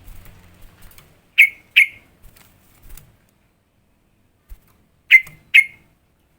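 Sooty-headed bulbul (trucukan) calling: two short, sharp, loud notes, then the same pair again about three and a half seconds later.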